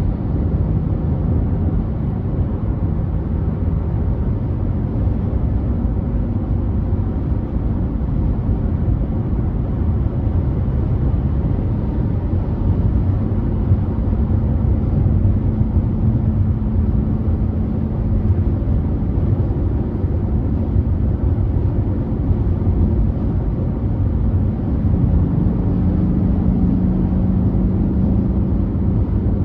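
Car travelling at freeway speed: a steady low rumble of road and engine noise, with a faint hum that drifts slightly in pitch.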